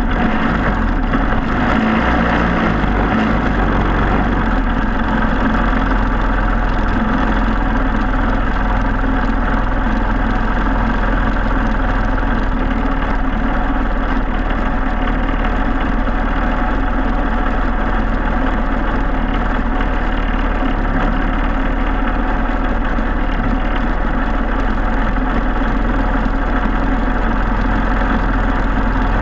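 Briggs & Stratton Animal single-cylinder four-stroke kart engine running steadily at an even pitch.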